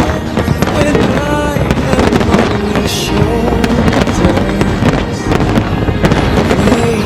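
Fireworks bursting and crackling over loud show music with sustained melodic lines.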